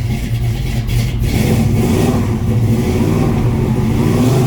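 Chevrolet 454 big-block V8 in a 1967 C10 pickup running steadily just after a cold start. The engine is still cold and will not hold an idle on its own.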